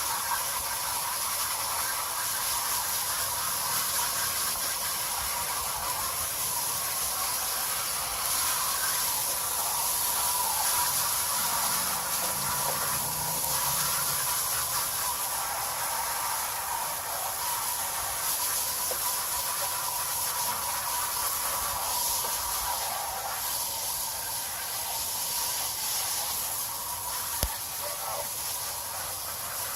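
Garden hose spraying water through an air-conditioner condenser coil, a steady hiss as the cottonwood is rinsed out of the fins.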